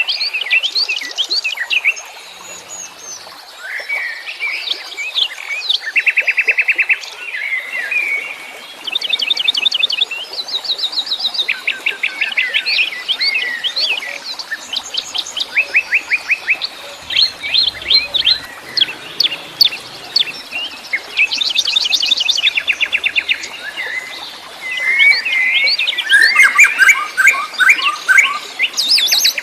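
Several wild songbirds singing and calling at once: quick chirps, whistled phrases and fast buzzy trills of evenly repeated notes, overlapping throughout.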